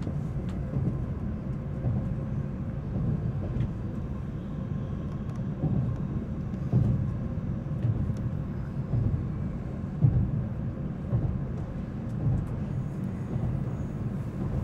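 Steady low rumble inside the cabin of an N700-series Tokaido Shinkansen train running, with a faint steady hum over it and a few brief thumps.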